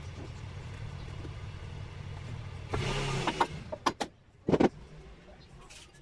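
A motor humming steadily, with a louder rushing noise about three seconds in; the hum stops near four seconds and a few sharp knocks follow, the loudest a second later.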